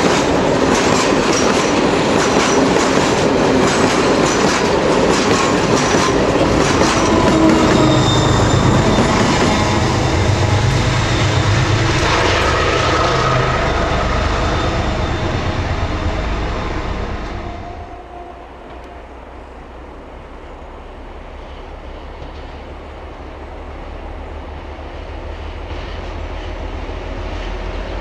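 Freight wagons rolling past close by with rhythmic wheel clatter over the rail joints and some wheel squeal, the noise fading as the end of the train goes into a tunnel. About two-thirds of the way in it cuts to a quieter low rumble of a heavy diesel locomotive approaching in the distance, growing louder toward the end.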